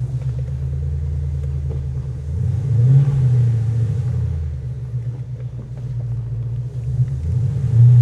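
Coyote 5.0 V8 of a Ford Mustang GT, with its low exhaust rumble at idle. It is blipped briefly about three seconds in and again near the end.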